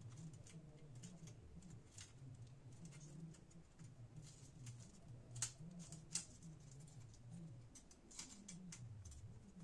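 Faint clicks and taps of laptop keyboard parts being handled and fitted, with two sharper clicks about five and a half and six seconds in, over a low wavering hum.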